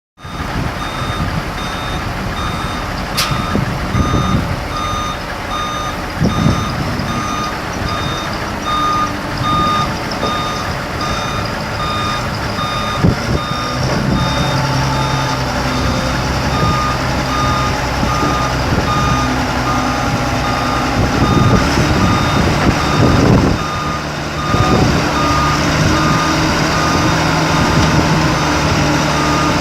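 Diesel engine of a Changlin 937H loader running with its reverse alarm beeping steadily, about two beeps a second; the beeping stops briefly about halfway through while the engine note rises.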